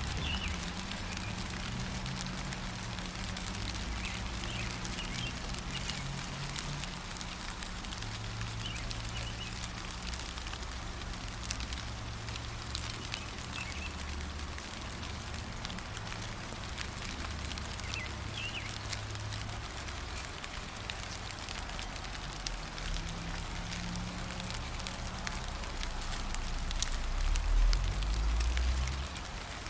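Steady patter of gentle rain, with a few faint short bird chirps scattered through it. A low rumble runs underneath and swells louder near the end.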